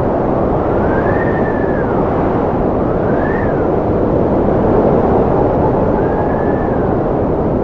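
Strong wind blowing with a steady rushing noise, and a whistling howl that rises and falls in pitch three times.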